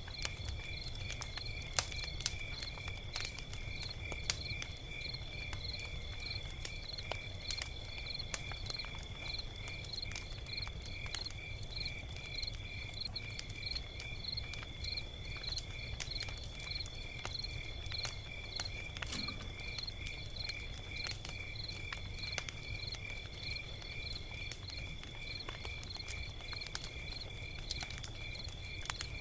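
Log fire crackling, with scattered sharp pops and snaps over a low rumble. A steady, high-pitched chirping pulses a couple of times a second throughout.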